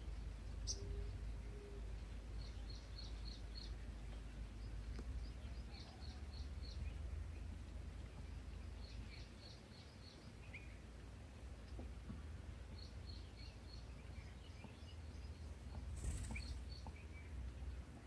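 Small birds chirping faintly: short rapid runs of high chirps, four to six at a time, repeating every few seconds over a steady low rumble. A brief sharp crackle comes near the end.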